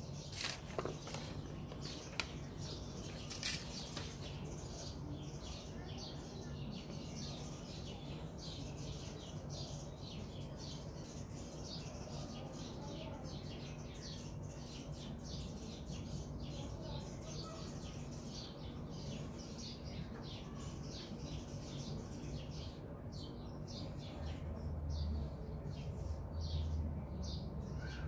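Small birds chirping over and over, faint, over a low steady hum, with a few low rumbles near the end.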